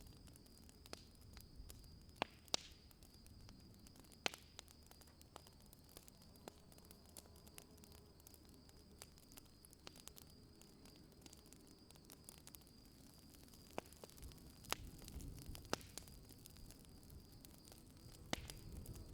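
Faint campfire crackling: a dozen or so sharp, irregular pops over a low hiss, with a faint steady high-pitched tone underneath.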